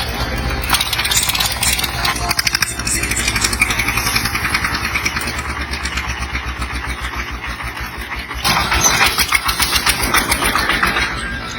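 Truck engine running hard with a steady low hum and a lot of rattle; it gets louder about eight and a half seconds in.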